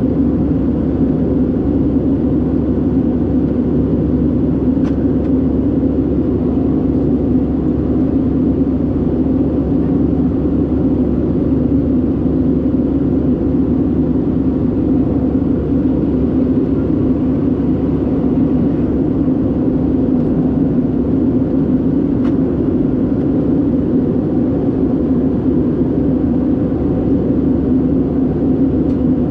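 Inside the cabin of an Airbus A319: the steady drone of its CFM56 jet engines, even in level, with a few faint ticks.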